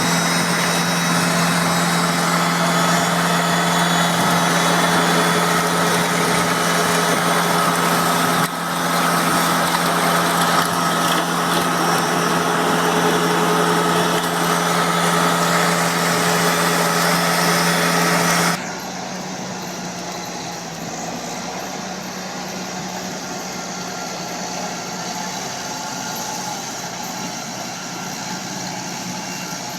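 Heavy farm machinery engine running steadily and loud, with a brief dip about a third of the way in. About two-thirds of the way through, the sound cuts suddenly to a quieter, duller engine hum.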